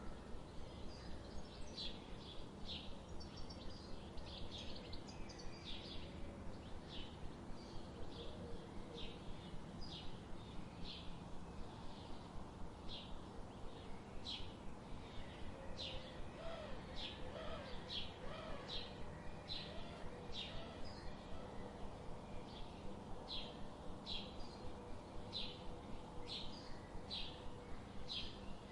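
Songbirds chirping: short high notes repeated about one to two times a second, with a few lower whistled notes in the middle. Under them runs the steady rush of a river.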